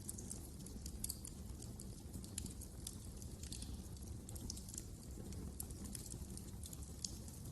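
Wood fire crackling, with many irregular sharp pops and snaps over a steady low rumble of the flames.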